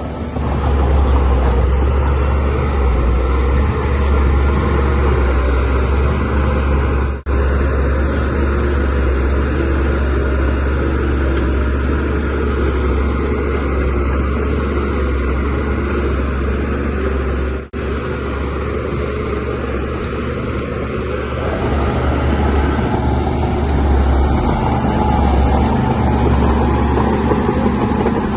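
Shantui DH17C3Pro bulldozer's diesel engine running steadily under load, a strong low drone. It breaks off for an instant twice, about a quarter and two-thirds of the way through.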